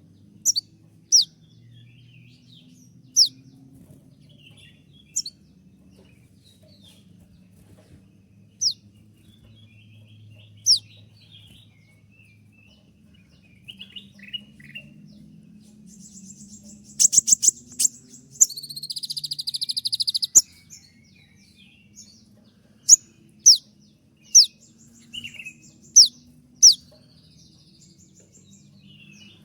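Konin (kolibri ninja sunbird) singing its sharp 'tembakan' song: short, high, down-slurred single notes every second or two, with a rapid rattling trill about 17 seconds in followed by a buzzy note held for about two seconds. A faint low hum runs underneath.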